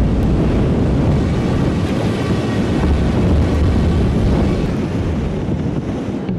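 Steady, loud wind buffeting the microphone on a sailing yacht at sea, a heavy low rumble mixed with rushing water.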